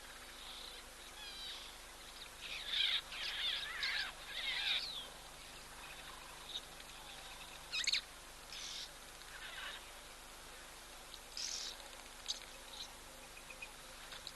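Wild birds calling outdoors: a flurry of quick, twittering chirps a couple of seconds in, then scattered short, harsh calls over a steady faint background hiss.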